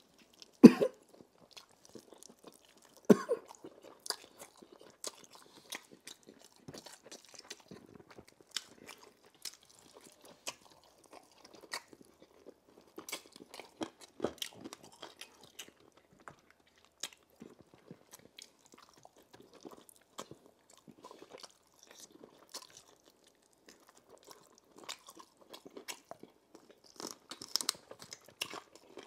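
A person chewing and biting into roast chicken, with many sharp crunchy clicks. Louder bites come about a second in and about three seconds in, and the crunching gets busier near the end.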